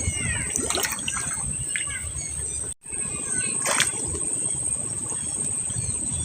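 Outdoor ambience of birds chirping over a steady high-pitched insect buzz, with a low rumble underneath. The sound cuts out for a split second near the middle.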